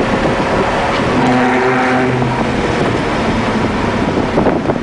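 BMW M3 engine and road noise heard from inside the cabin as the car is driven on a racetrack. About a second in, the engine note comes through clearly and holds a steady pitch for about a second.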